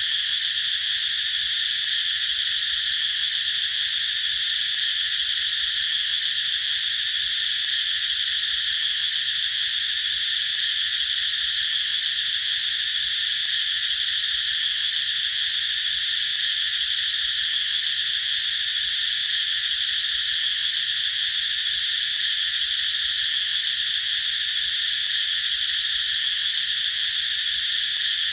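Cicadas calling in a steady, unbroken chorus: a continuous high-pitched buzz that never pauses or changes.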